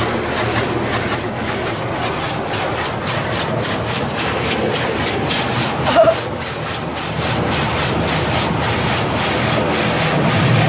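Automatic car wash spraying and washing the car, heard from inside the cabin: a loud, steady noise with a fast rhythmic pulse, and a short squeak about six seconds in.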